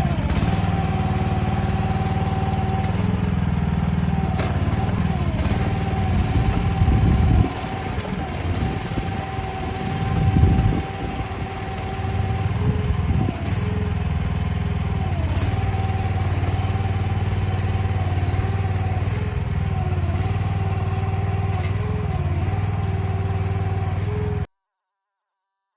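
Mini excavator's engine running under load as it tracks up a snowy slope, with a steady whine that dips in pitch now and then and a rougher, uneven stretch about a third of the way in. The sound cuts off abruptly near the end.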